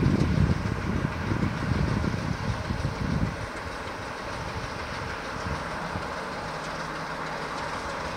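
Railway train sound: the heavy low rumble of a freight train and a Romanian Class 60 (060-DA) diesel-electric locomotive on the move. About three seconds in the rumble drops to a quieter steady running sound with a low hum.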